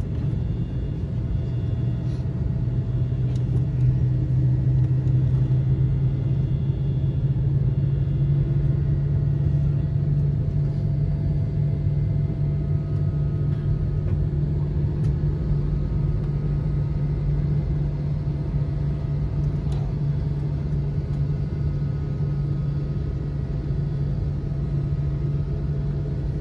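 Airliner cabin noise from the running jet engines: a steady low rumble with a strong low hum, heard from inside the passenger cabin.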